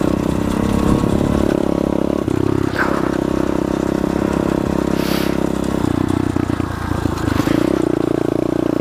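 SSR 125 pit bike's single-cylinder four-stroke engine running under way at a fairly steady throttle; its note dips and comes back up twice. A few short clatters sound over the engine.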